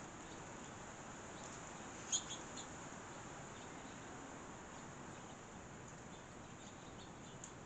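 Small songbirds chirping: one short, sharp high chirp about two seconds in, followed by a few fainter chirps, with scattered faint chirps later over a steady low background hiss.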